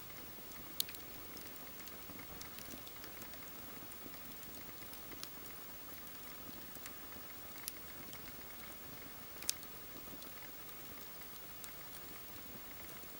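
Wood campfire crackling: the logs hiss steadily under many small scattered pops. Three sharper snaps stand out, one about a second in and two more in the second half.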